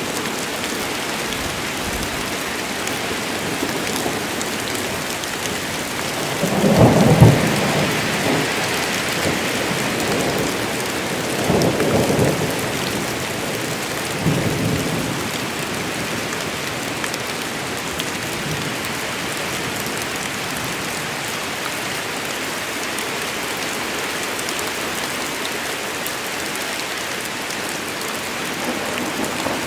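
Steady rain of a thunderstorm with thunder: a loud rumble about seven seconds in, then two weaker rumbles a few seconds later.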